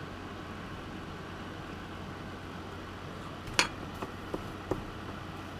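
A few small sharp clicks and taps of parts and tools being handled on a workbench, starting a little past halfway: one louder click followed by three lighter ones. Under them runs a steady background hiss with a low hum.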